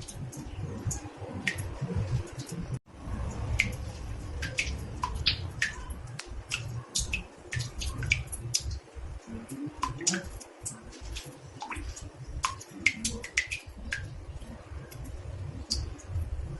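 Water drops falling into a bathtub: irregular plinks, several a second, each dropping quickly in pitch, over a low rumble. The sound cuts out for an instant about three seconds in.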